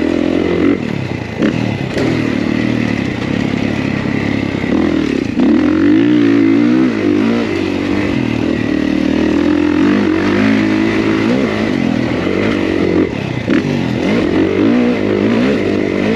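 Kawasaki KX450 dirt bike's four-stroke single-cylinder engine being ridden hard, its pitch rising and falling again and again as the throttle opens and closes.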